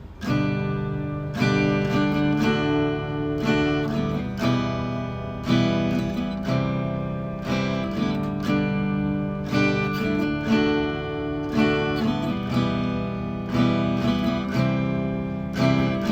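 Acoustic guitar strumming chords, a new strum about every second: the instrumental introduction to a song, before the vocals come in.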